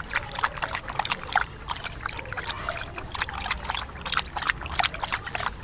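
Water splashing and sloshing in quick, irregular splashes.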